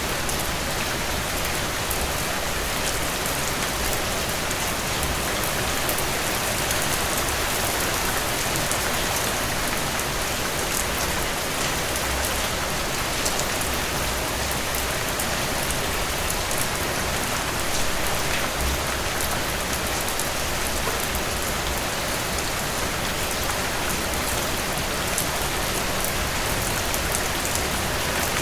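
Heavy rain pouring steadily, a dense hiss of drops with fine close patter on a surface.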